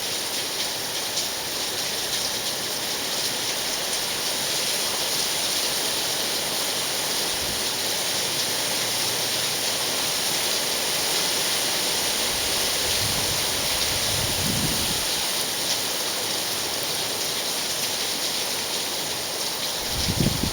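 Steady rain falling: an even, rushing hiss flecked with the patter of drops. A few brief low rumbles come about two-thirds of the way through and again just at the end.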